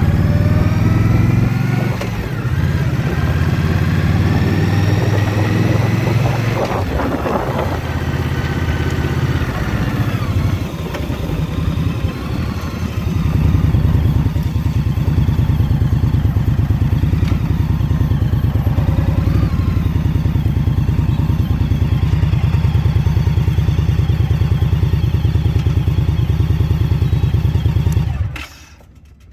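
Indian motorcycle's V-twin engine rising in pitch through a couple of gear shifts, then easing off about seven seconds in. From about thirteen seconds in it runs at a steady, even note, and it cuts off abruptly near the end.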